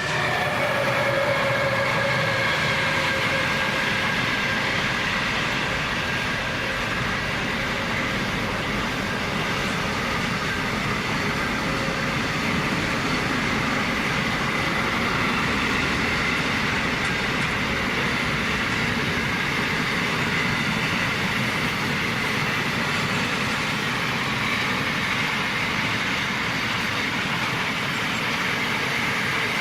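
Container freight train headed by three VL class diesel locomotives running past, a loud, steady rolling noise of wheels on rails with a high tone held throughout.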